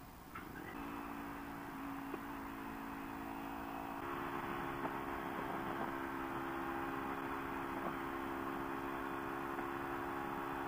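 Kawasaki Ninja 300's parallel-twin engine running under way, with wind rush. Its note steps up in pitch a few times in the first four seconds, holds steady, and eases down slightly near the end.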